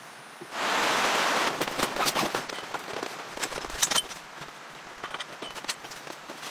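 Rain: a loud, even hiss for about a second, then scattered sharp drops and taps that grow quieter from about four seconds in.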